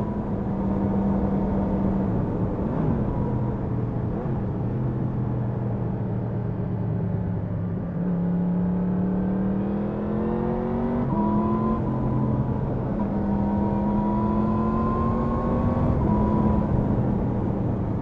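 Yamaha MT-10 SP's crossplane inline-four engine running under way, with wind rushing over the microphone. The engine note rises from about eight seconds in, drops at an upshift about eleven seconds in, then rises again and drops at another shift near the end.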